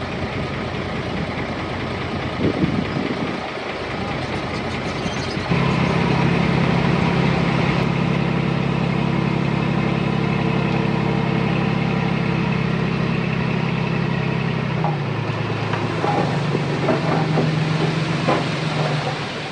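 Heavy diesel engine of earthmoving machinery running. About five seconds in it steps up to a louder, steady higher revving that holds for about ten seconds, then drops back, with a few clanks near the end.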